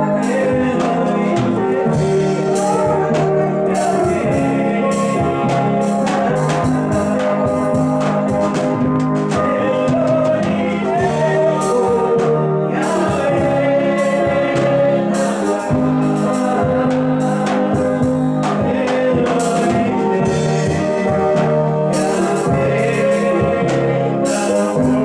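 Gospel song: singing over instrumental accompaniment with a steady beat.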